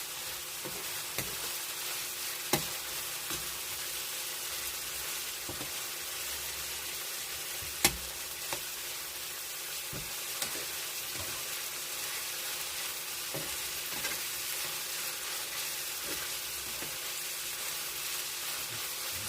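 Pork sizzling steadily as it fries in a pan, with scattered sharp clicks of a utensil against the pan, the loudest about eight seconds in.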